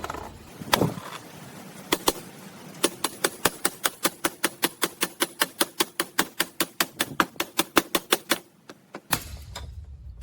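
A rapid, even run of sharp metallic clicks, about five a second for several seconds, each with a short ring, after a couple of heavier knocks; a hand tool working on the trike's metal parts.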